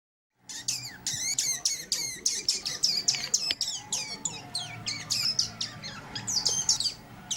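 Degu chirping: a quick run of short, high, downward-sweeping squeaks, about three a second, starting about half a second in.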